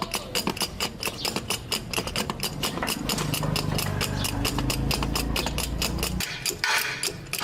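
A machine running with rapid, even ticking, and a deeper hum that comes up about three seconds in and stops after about six.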